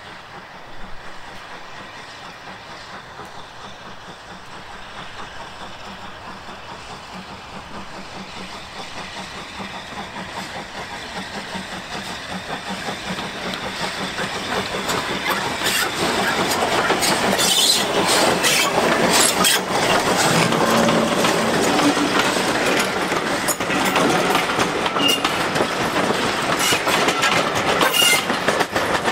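Steam-hauled heritage train approaching and then passing close by. It grows steadily louder through the first half, then the wheels click rhythmically over the rail joints as the coaches roll past.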